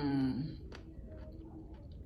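A woman's short humming vocal sound, falling slightly in pitch and ending about half a second in, then faint mouth clicks as she chews sushi.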